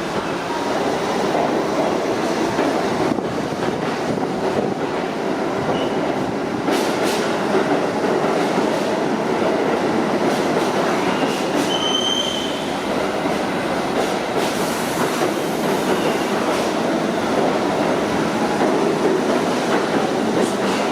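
R68 subway train pulling out along the rails, a steady rumble of steel wheels with clicks over rail joints. A brief high wheel squeal comes about twelve seconds in.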